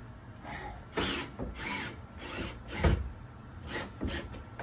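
Power drill driving a screw through a closet pole socket into the wall in about six short trigger bursts. The motor's pitch rises and falls with each burst, and the loudest burst comes near three seconds in.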